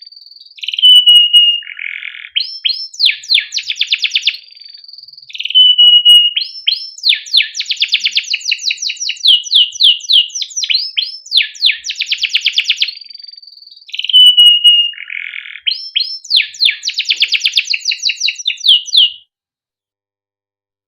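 Male canary singing long phrases: fast repeated "cuit cuit" chirps and rolling trills, broken by short held whistled notes. The song stops about 19 seconds in.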